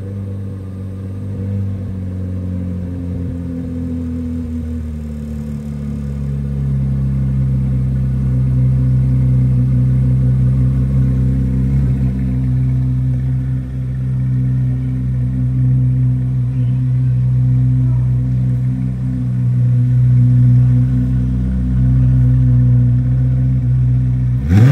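2023 Corvette Z06's 5.5-litre flat-plane-crank V8 running at a steady idle as the car pulls slowly away. The pitch lifts slightly a few seconds in and the engine grows louder, with a quick rev blip right at the end.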